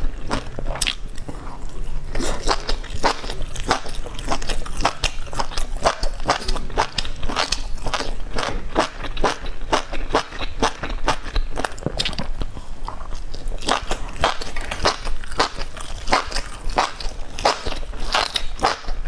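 A person chewing meat-wrapped enoki mushroom skewers close to the microphone: many short, sharp chewing clicks in quick succession, a few each second.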